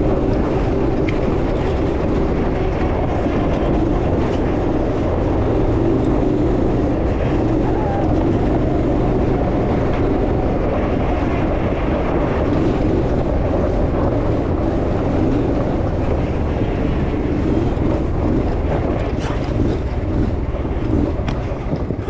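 Off-road buggy engine running steadily at close range, with a few sharp knocks near the end.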